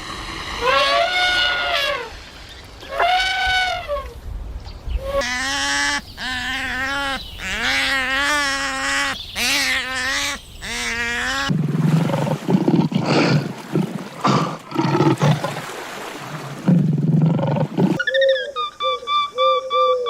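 A run of different animal calls, one after another: three rising-and-falling cries, then a series of lower wavering calls, then a rough, noisy stretch, and near the end quick short repeated calls.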